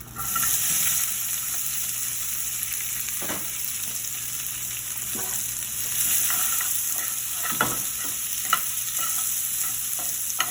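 Sliced onion and bell peppers sizzling in hot oil in a frying pan. The sizzle starts suddenly. From about halfway through, a utensil stirring them taps and scrapes against the pan now and then.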